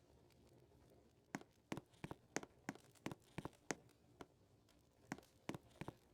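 Footsteps: a run of irregular, sharp steps that starts about a second in.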